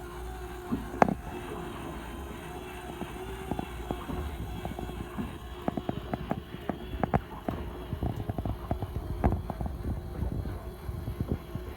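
A fishing boat's engine runs with a steady low hum. Over it come many sharp clicks and knocks, one loud knock about a second in, and they grow thicker from about halfway.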